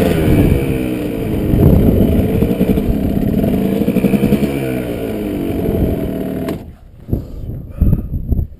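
Kawasaki KDX220 two-stroke single-cylinder dirt bike engine running under the rider, its pitch rising and falling with the throttle, then cutting off suddenly about six and a half seconds in; a few knocks and wind follow.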